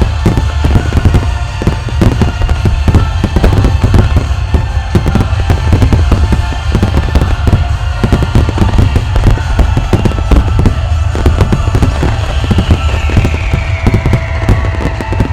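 Fireworks finale barrage: shells bursting in rapid succession, many sharp cracks and booms a second over a continuous deep rumble.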